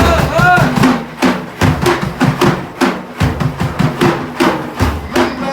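Hand drums beating a rhythmic pattern of deep thumps and sharp slaps between lines of a Sufi devotional song. A sung phrase ends about half a second in.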